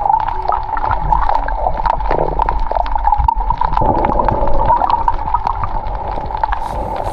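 Underwater gurgling and rushing water over a steady low rumble, peppered with many sharp clicks and crackles.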